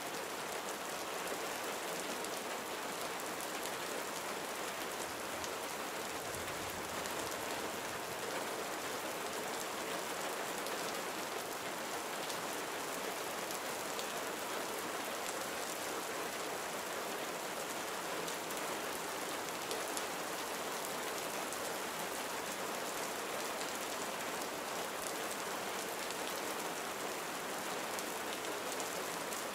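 Steady gentle rain falling on surfaces, an even patter with fine drop ticks and no changes.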